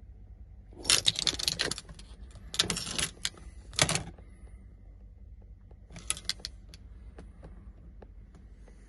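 Keys jangling in three short bursts within the first four seconds, then a few faint clicks, as the key is handled before a cold start of the MGA coupe.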